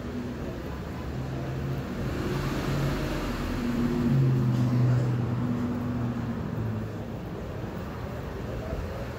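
Mazda6 wagon's engine idling, a steady low hum that grows louder over the middle few seconds and then eases off again.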